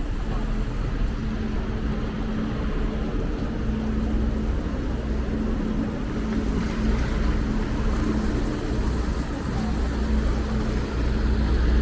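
City street traffic: a steady rumble of vehicles with a low engine hum, growing a little louder near the end.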